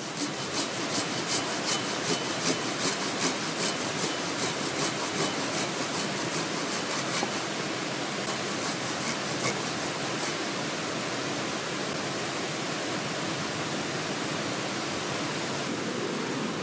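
Hand saw cutting through wood in quick, even strokes, about three a second, for roughly seven seconds before stopping. A mountain stream's steady rush runs underneath.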